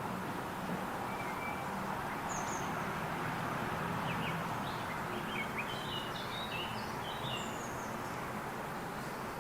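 Small garden birds giving short, high chirps, scattered at first and bunched together a little past the middle, over a steady background rush.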